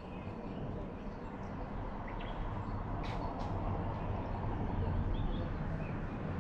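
Outdoor ambience: a few faint bird chirps over a steady low rumble that grows a little louder toward the end, with two brief clicks about halfway through.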